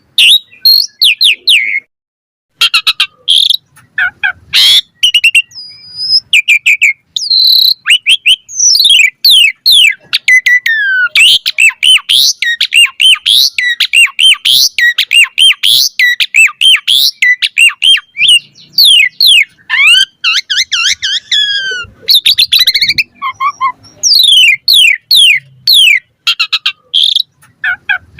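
Asian pied starling singing a long, rapid, varied song of whistles, chirps and sliding notes, with a short break about two seconds in.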